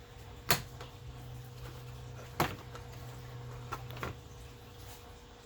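Sharp plastic clicks from push-type retaining clips being popped out of a car's plastic radiator cover: two loud ones about two seconds apart, then two lighter ones near the end.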